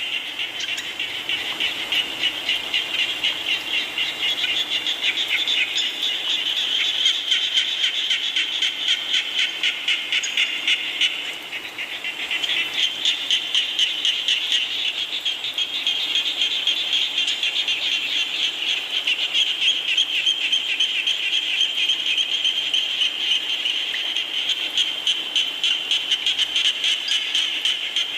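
A dense chorus of frogs calling in fast, pulsing trills, many overlapping in a regular beat, over a steady hiss of rain. The chorus dips briefly about eleven seconds in.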